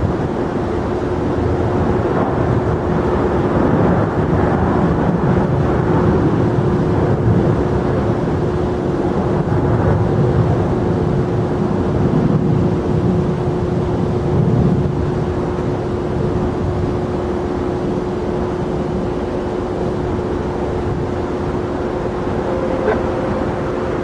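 Jet airliner engines running, a loud steady noise with a constant hum, swelling a little for several seconds and then easing off.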